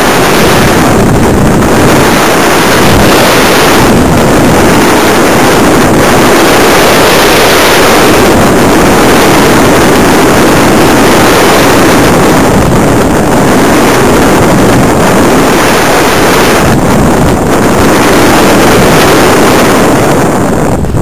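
Loud, steady rush of air over an onboard camera riding a Simprop Hurricane electric RC glider in flight, swelling and easing slightly every few seconds.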